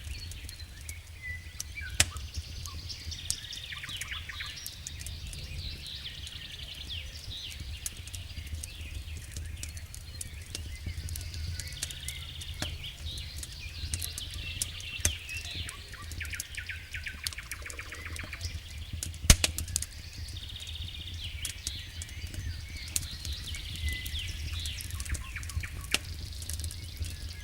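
Wood fire crackling in a fireplace, with scattered sharp pops, the loudest about 19 seconds in, over a steady low rumble.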